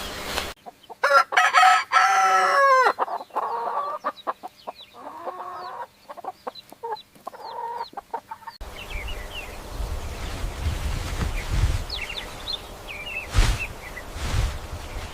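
A rooster crows once, a long call that falls off at the end. Chickens then cluck in short broken calls. About eight and a half seconds in, the sound cuts to a different recording with low rumbling noise, faint high chirps and a sharp knock near the end.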